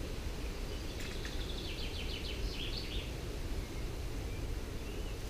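A songbird sings one short phrase about a second in: a quick run of repeated notes ending in a brief higher flourish, over steady low background noise.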